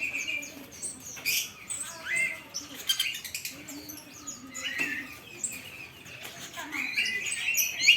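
Many caged songbirds chirping and whistling at once, short overlapping calls and sliding notes with no pause.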